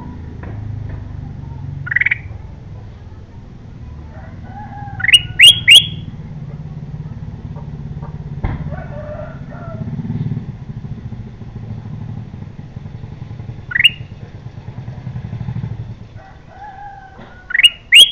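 Golden bulbul (kutilang emas) calling: short, loud, sharply rising whistled notes, singly and in quick runs of three, a few seconds apart. A steady low rumble runs underneath.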